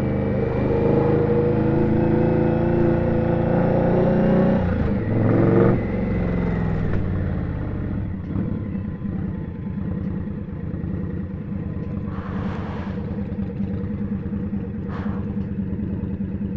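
Indian Scout's V-twin motorcycle engine running under way, its pitch creeping up for about four seconds, then falling away about five seconds in as the throttle closes. After that it runs slower and quieter with a low, even pulsing beat, and a brief hiss comes up about twelve seconds in.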